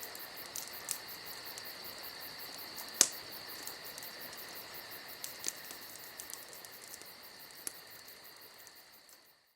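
Crickets chirping steadily with a fast pulsing trill, over a campfire that crackles with occasional sharp pops, the loudest about three seconds in. The sound fades out near the end.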